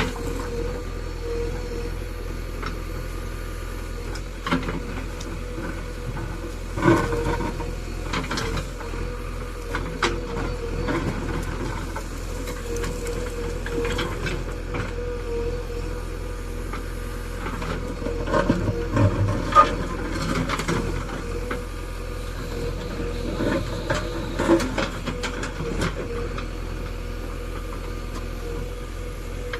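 JCB 3DX Eco Xpert backhoe loader's diesel engine running steadily under work, with scattered knocks and clanks from the machine working, the sharpest about seven seconds in and a cluster about eighteen to twenty seconds in.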